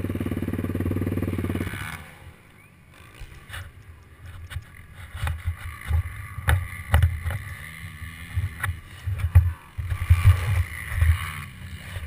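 Suzuki LTR 450 quad's single-cylinder four-stroke engine running steadily, then cut off about two seconds in. Afterwards come low gusts of wind buffeting the microphone and scattered clicks and knocks.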